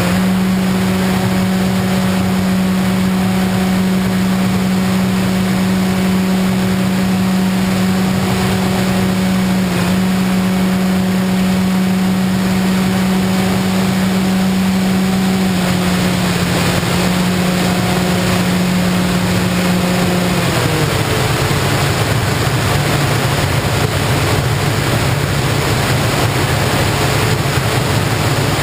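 FPV model plane's motor and propeller running steadily with a constant hum and rushing air, then settling to a lower pitch about 20 seconds in.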